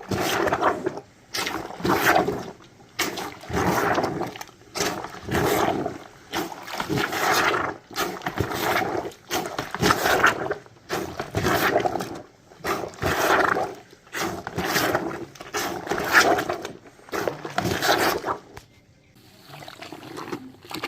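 washOTG hand-pumped laundry plunger being worked up and down in a bucket of soapy water and clothes, a sloshing whoosh with each stroke at about one stroke a second. The strokes stop near the end.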